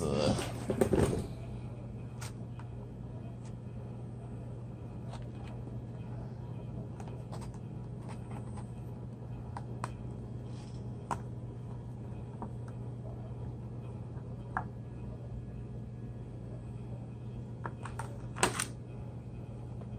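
Plastic food packaging being handled: scattered small clicks and crinkles over a steady low hum, with louder rustling at the start and a sharper crinkle near the end.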